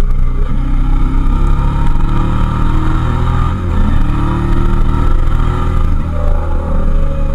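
Suzuki SV650S's 645 cc 90-degree V-twin engine running under way. The engine note dips briefly about three and a half seconds in and climbs again near the end.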